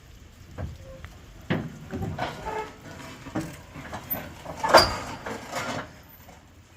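A string of irregular knocks and clunks, the loudest about three-quarters of the way through.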